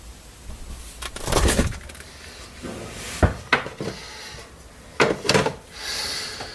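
Handling noises from household objects: a few sharp knocks and clatters with some rustling in between.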